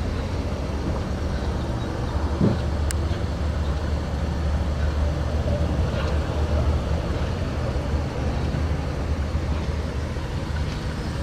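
Steady low hum of a 2006 Mazda 6 engine idling, with a single sharp click about three seconds in.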